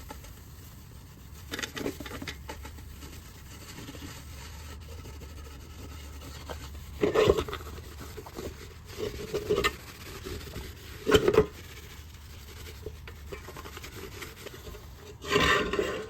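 Scotch-Brite pad scrubbing a metal hubcap: separate short rubbing and scraping strokes, the strongest about seven and eleven seconds in, over a low steady hum.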